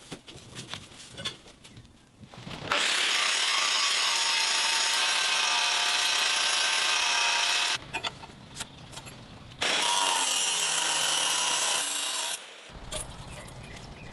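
Power grinder working steel in two long passes, the first about five seconds and the second about three. Each starts and stops abruptly, with quieter scraping and clicks in between.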